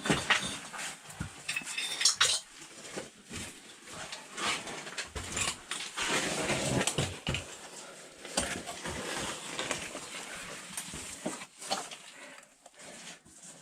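A caver crawling through a tight rock crevice: gear and clothing scraping and rustling against the rock, with irregular knocks and small stones clinking.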